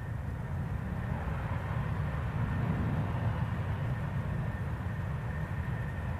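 Jet engine running: a steady low rumble with a thin high whine that rises slightly near the end.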